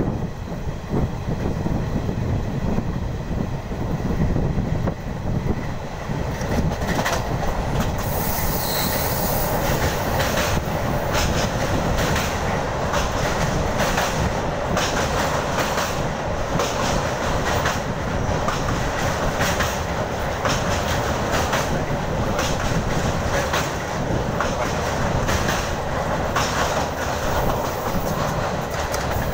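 Indian passenger train running at speed: a steady rumble of the coaches with the wheels clattering rhythmically over the rail joints. The clatter grows sharper and busier after about seven seconds.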